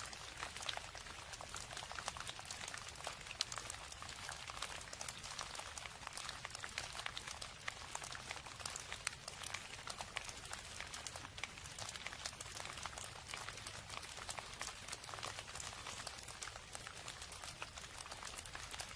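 Steady rain with many fine drops pattering on a surface.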